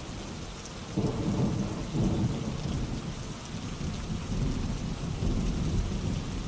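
Steady rainfall with low rolling thunder, the rumble swelling about a second in and going on in waves.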